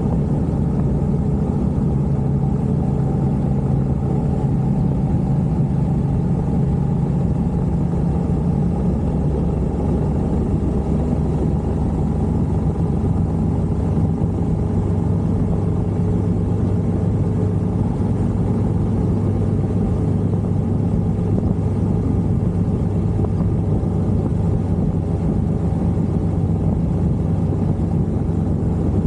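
A vehicle engine running steadily under way with low road and wind rumble, its pitch settling a little lower about twelve seconds in.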